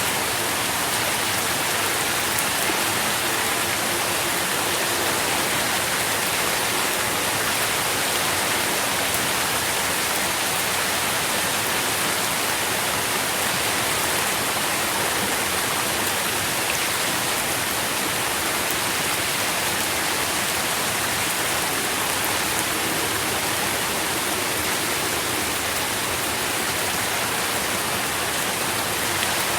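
Steady, dense rainfall, an even hiss of many drops that holds level throughout.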